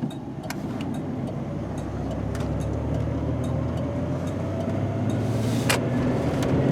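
Engine and road noise heard inside a pickup truck's cab while driving, a steady rumble that slowly grows louder as the truck gathers speed. There are scattered small clicks and one sharper click a little before the end.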